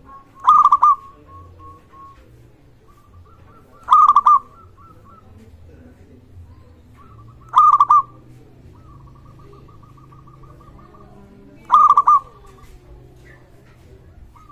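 Zebra dove cooing: four loud, short rolling coos, each about four seconds apart, with softer strings of rapid coo notes in between.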